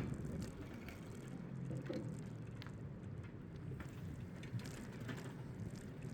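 Bicycle freewheel ticking while the rider coasts, a run of scattered small clicks over steady low tyre and wind rumble, with one sharp click at the start.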